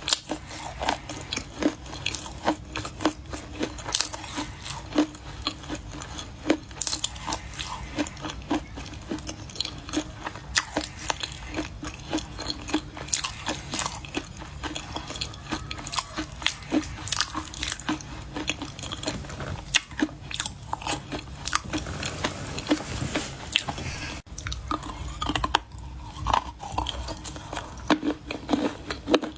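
Chunks of clay being bitten and chewed, with many sharp, crisp crunches and cracks in quick irregular succession. A steady low hum runs underneath.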